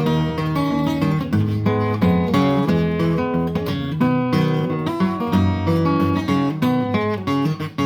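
Acoustic guitar playing an instrumental passage: quick picked notes over a moving bass line.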